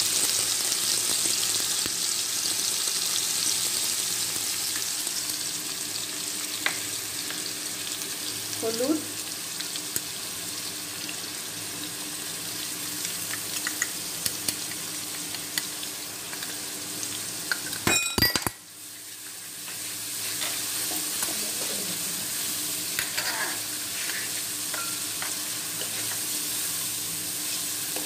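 Chopped pineapple and whole spices frying in hot oil in a non-stick wok: a steady sizzle, with a wooden spatula stirring and scraping through it. A quick cluster of sharp clicks about two-thirds of the way through, after which the sizzle dips for a moment and comes back.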